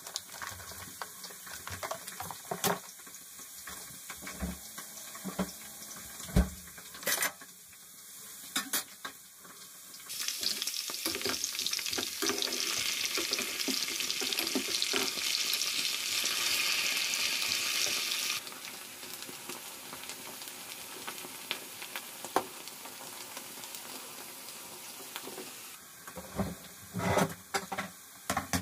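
Kitchen work: scattered clicks and knocks of utensils and dishes, with a steady hiss that starts abruptly about ten seconds in and cuts off about eight seconds later.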